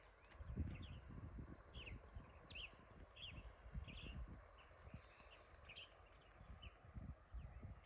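A small bird calling faintly with short chirps repeated about once or twice a second, over low, uneven rumbling.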